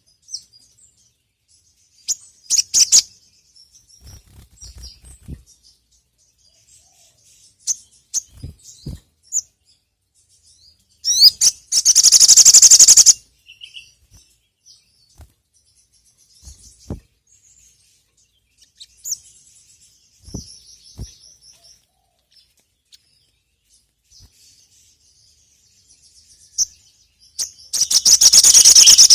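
Sogon (sogok ontong), a nectar-feeding songbird, singing: scattered high, thin chirps, with two long, loud, rapid trills, one about eleven seconds in and one near the end.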